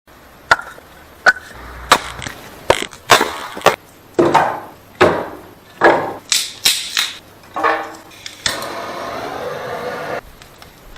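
A series of sharp wooden knocks and cracks, about a dozen over eight seconds, like firewood being chopped and split, followed by a steady rushing noise that stops suddenly.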